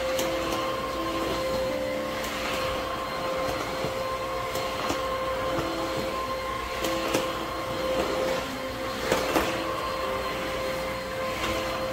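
Vacuum cleaner motor running steadily with a constant whine, and a few light knocks, two close together about nine seconds in.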